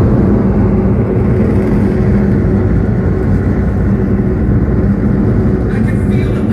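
Five Saturn V first-stage F-1 rocket engines firing together on a static test stand: a loud, steady, low-pitched noise.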